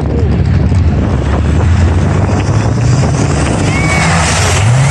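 Mud truck's engine running loud and steady, then revving up near the end.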